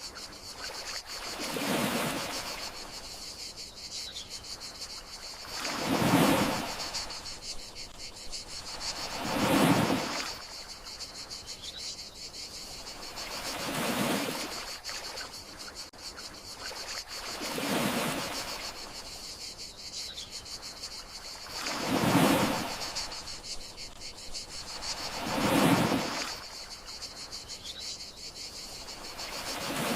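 Gentle sea waves washing onto the shore, one soft swell about every four seconds, over the steady chirring of crickets.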